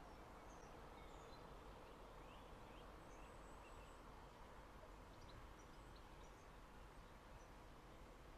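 Near silence: faint outdoor background hiss with scattered small bird chirps and short calls.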